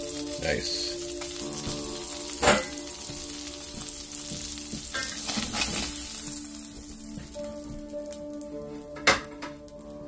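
Food frying and sizzling in a cast iron skillet, the sizzle dying down over the last few seconds, with two sharp knocks on the pan, about two and a half seconds in and near the end.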